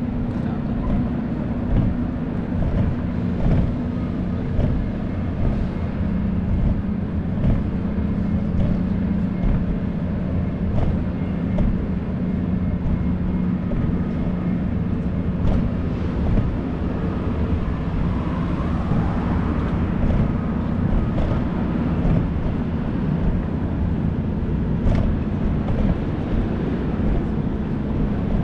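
Steady low rumble of street traffic and road noise with a constant low hum, heard while riding a bicycle through city streets.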